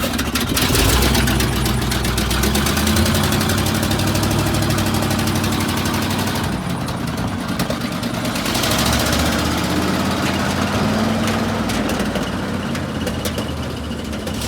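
1988 Ford F-800 grain truck's engine running steadily, its speed dipping and rising slightly a couple of times.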